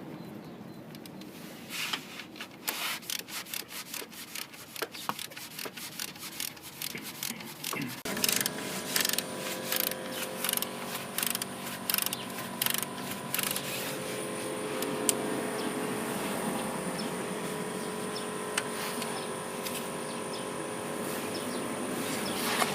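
Hand tools working on an engine's intake manifold: a long run of quick, irregular clicks and rasps. About a third of the way in, a steady hum with several held tones joins in.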